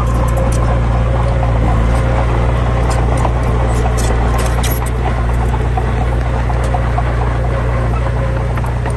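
Heavy diesel engine running steadily, with scattered sharp clicks and rattles over it.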